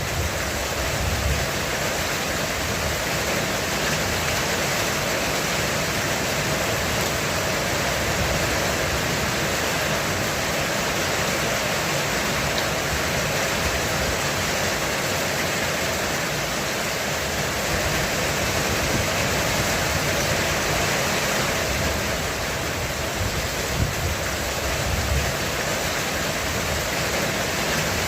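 Heavy rain drumming steadily on a roof, a dense, even hiss of countless drops.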